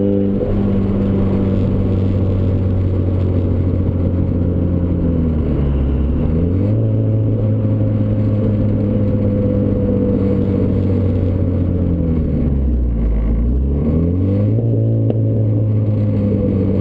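Turbocharged Ford Escort ZX2's four-cylinder engine through a custom 3-inch side-exit exhaust, running at steady revs. The pitch drops and climbs back up twice, about five seconds in and again about twelve seconds in.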